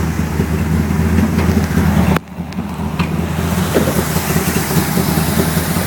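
A 377 cubic-inch small-block Chevy V8 with a .510 roller camshaft idling steadily. The sound briefly drops out about two seconds in.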